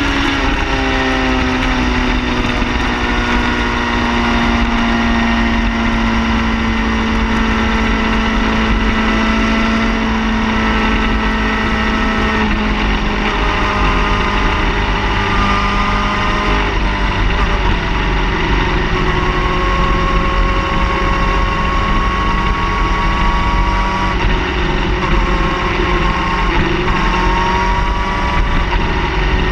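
Car engines running steadily, their pitch drifting slowly up and down, over a low rumble.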